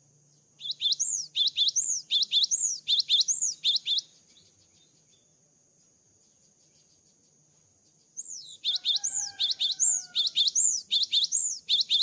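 Cinereous tit (gelatik batu) singing: two bouts of quick, repeated high whistled notes, several a second, separated by a pause of about four seconds.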